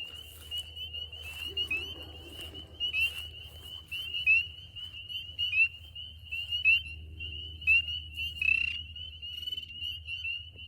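Chorus of spring peepers: many overlapping high-pitched peeps, each a short rising whistle, calling without pause. A steady low rumble runs underneath.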